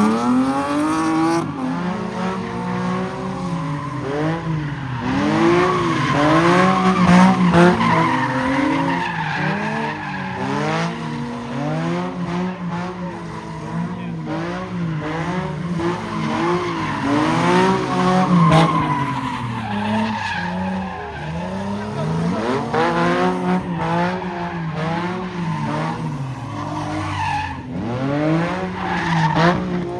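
Car engine revving up and falling back over and over, with tyres squealing and skidding, as a car spins in a car pit.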